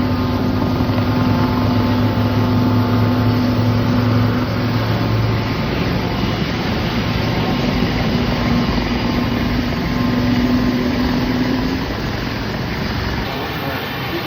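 Aircraft engines running in a loud, steady drone. A low hum fades out about a third of the way in, and a tone just above it carries on until near the end, when the sound eases off slightly.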